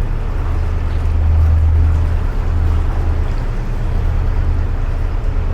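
Narrowboat engine running steadily at cruising speed inside a canal tunnel, a continuous low drone that swells slightly about a second or two in.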